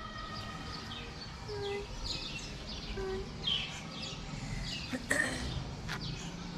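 Small birds chirping in the background, short falling chirps repeated throughout, over a low steady hum of outdoor background noise. A single sharp knock about five seconds in.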